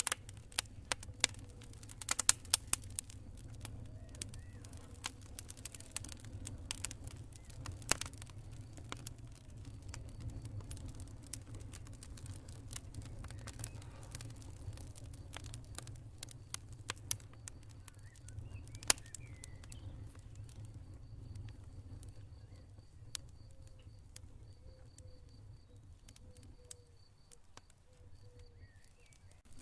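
Campfire crackling: irregular sharp pops and snaps over a low steady rumble of burning wood. A faint, evenly pulsed cricket chirping comes in during the second half.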